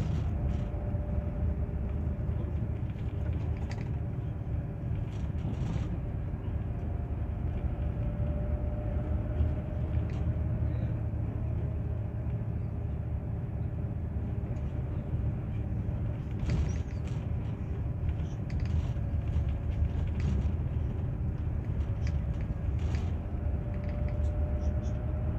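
Scania Touring HD coach running with a steady low rumble, its engine pitch drifting slowly up and down with road speed. A few light clicks and creaks are heard over it.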